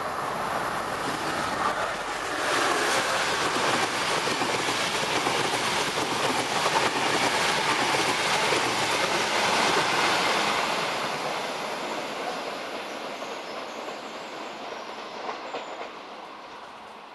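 Enterprise express hauled by an NIR 201 class diesel-electric locomotive passing through a station. The train grows loud about two seconds in and stays loud until about ten seconds, then fades away as it leaves.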